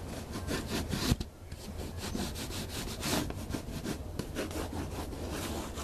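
Rubbing against the RV's textured exterior wall: quick, repeated back-and-forth strokes, about three or four a second.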